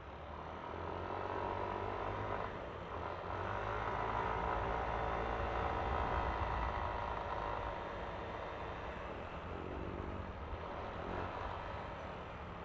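Yamaha Aerox V3 scooter's 155 cc single-cylinder engine and belt drive running on the move, with road and wind noise. The engine note builds about a second in, holds strongest through the middle, then eases off toward the end.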